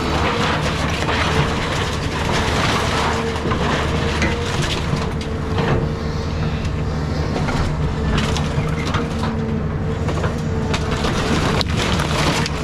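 Caterpillar 323 hydraulic excavator running under load, its diesel drone and a steady hydraulic whine going throughout, with scattered cracks and crunches of wreckage as it tears into a house.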